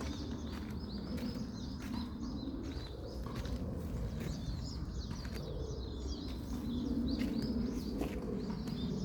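Small birds chirping: many short, quick chirps over a steady low background noise, with scattered clicks.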